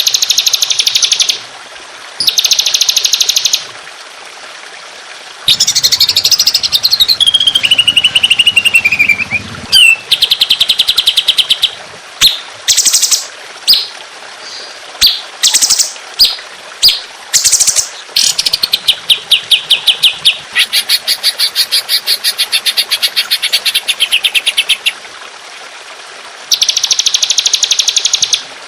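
Songbird song recorded for bird-training 'masteran': rapid, dense 'tembakan' trills of quickly repeated high notes in bursts of one to several seconds. A falling whistled phrase comes early on, then a string of sharp single notes, then a long trill of about six seconds.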